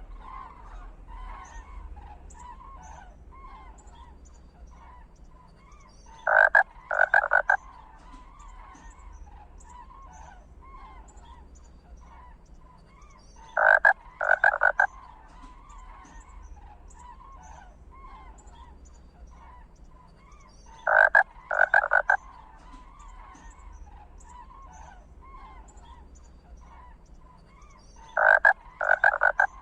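Outdoor animal calling: a continuous chorus of small croaking calls under a loud group of three honking calls. The honks return at even spacing about every seven seconds, four times.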